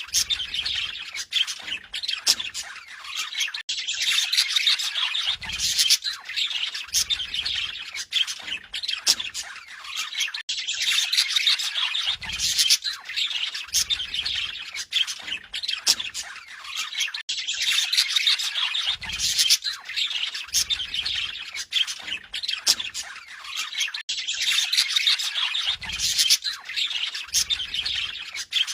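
Budgerigar chattering and warbling: a fast, unbroken run of squawks, chirps and clicks, its sequence repeating about every seven seconds.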